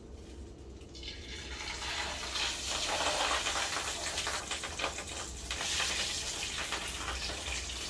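Pieces of mud carp sizzling in hot frying oil in a pan as they are laid in. The hiss starts about a second in, swells, then holds steady.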